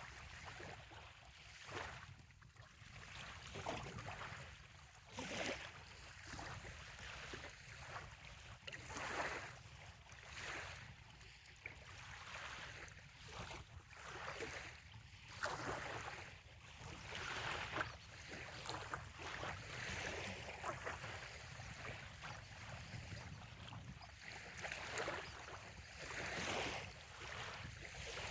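Small waves lapping on a sandy bay shore: irregular soft washes of water every second or two, over a low steady rumble.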